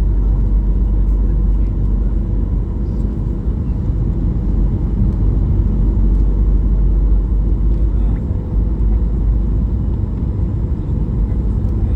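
Inside the cabin of a Boeing 737-800, its CFM56-7B engines and the airflow make a steady, deep rumble.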